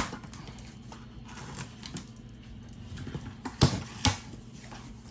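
Handling noise from a model-aircraft box being picked up and moved: a few scattered knocks and rustles, the two loudest sharp knocks close together about three and a half and four seconds in.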